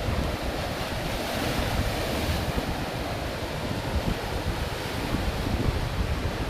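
Waves washing onto a rocky sea shore, with wind buffeting the microphone in a steady low rumble.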